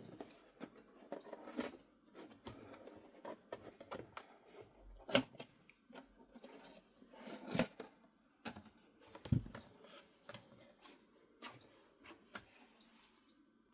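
Irregular clicks, taps and knocks of objects being handled, with soft rustling between them and a few sharper knocks.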